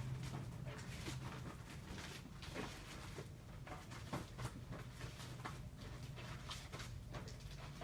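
Tape dispenser in use while comic books are being taped: tape pulled off the roll and torn against the cutter, with the handling of the books, heard as a run of irregular light clicks and rustles.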